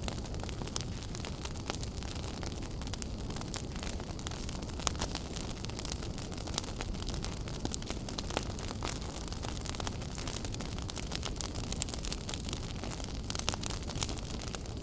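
Wood fire burning in a fireplace: a steady low rumble of flames with frequent small crackles and occasional sharper pops.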